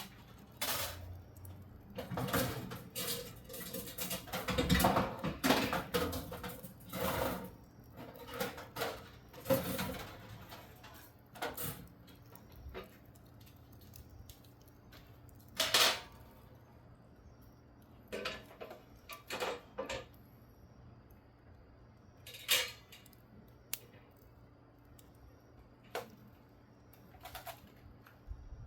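Irregular clinks and knocks of hard pieces striking each other, as when charcoal and firewood are handled: a dense clatter over the first ten seconds, then single knocks every few seconds.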